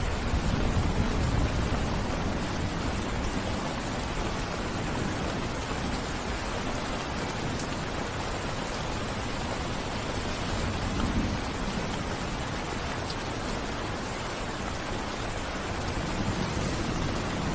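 Heavy rain falling steadily, a dense even hiss, with a low rumble swelling briefly about eleven seconds in and again near the end.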